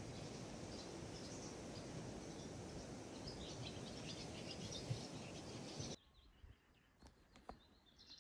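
Newly hatched chicks peeping: many short, high cheeps over a steady hiss. The sound cuts off suddenly about six seconds in.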